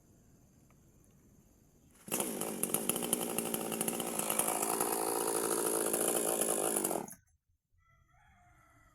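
Chainsaw running at high revs for about five seconds, then cut off abruptly. A rooster crows faintly near the end.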